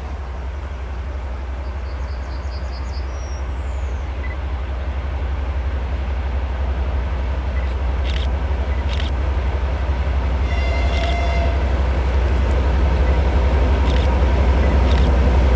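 2TE10MK diesel locomotive hauling a freight train, its deep engine rumble growing steadily louder as it approaches. A short horn blast sounds about two-thirds of the way through, and a few sharp clicks come near the middle and the end. Birds chirp briefly near the start.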